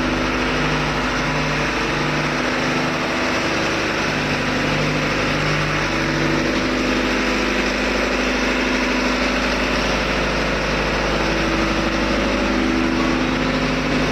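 Engine-room machinery of a ship: an engine running steadily with a regular low throb, over a dense, even machine noise.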